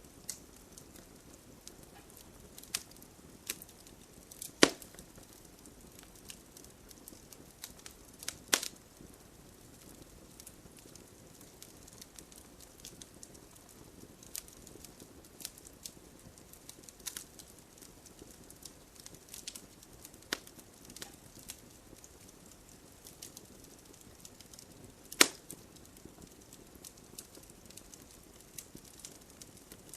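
Campfire crackling: irregular sharp pops and snaps over a low steady hiss, with three much louder pops spread through.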